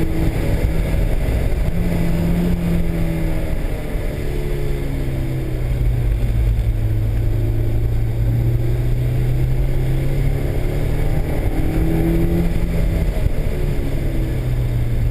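Honda S2000's four-cylinder engine pulling at part throttle on the move, its note dropping about four seconds in, holding steady, then rising briefly near twelve seconds before settling again.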